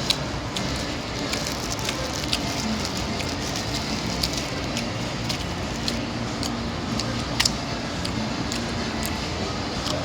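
Close-miked eating sounds: chewing and lip-smacking, with frequent sharp wet clicks over a steady background noise.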